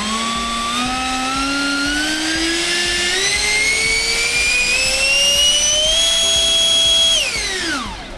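Electric ducted fan of an RC foam F-16 jet, driven by an 1800 kV motor, throttled up in steps to a high whine during a static thrust test. It holds at full throttle drawing about 80 amps for about a second, then is cut and spins down quickly near the end.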